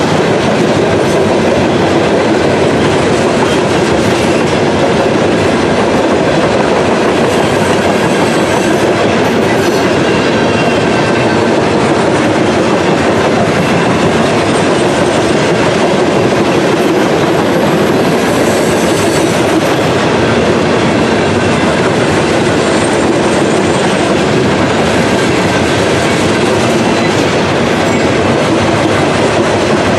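Loaded coal hopper cars of a freight train rolling past: a loud, steady rumble of steel wheels on the rails, with a faint high wheel squeal now and then.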